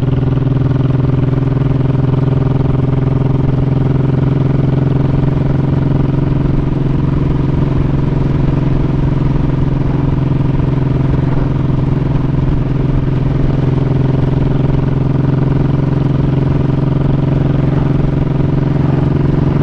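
Honda Shadow 1100's V-twin engine running at a steady pace while riding, holding one even pitch with no revving.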